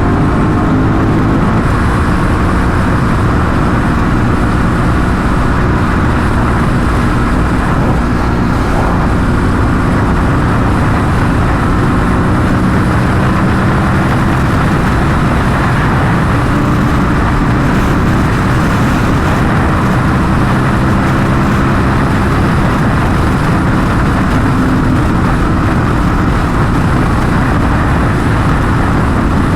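Superbike engine running at a fairly steady speed on the move, its pitch drifting gently, under heavy wind rush on a helmet-mounted microphone.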